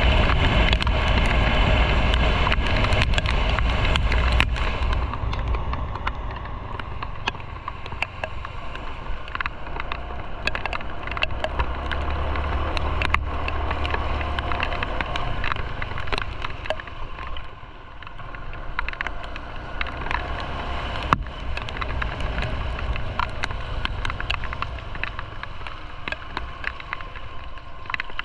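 Motorcycle on the move: engine and road noise with wind rushing over the microphone, loudest for the first few seconds and easing off about five seconds in, with scattered light ticks throughout.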